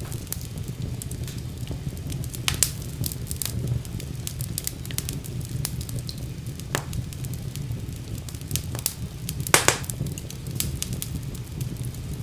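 Wood fire burning with a steady low rumble and frequent sharp crackles and pops, the loudest about two and a half seconds in and again near the end.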